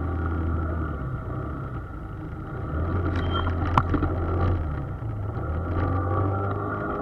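Engine and road noise of a moving vehicle heard from inside the cab: a steady low hum that fades and returns, with one sharp click a little before the four-second mark.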